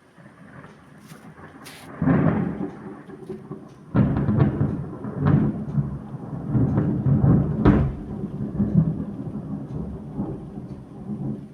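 Close thunder from a lightning strike: a sudden crash about two seconds in, a second, louder crack about two seconds later, then a long rolling rumble that slowly fades.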